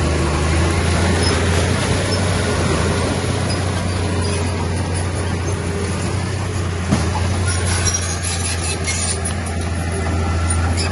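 Heavy diesel engine of earthmoving machinery running steadily under load, with a single sharp knock about seven seconds in and some faint metallic rattling after it.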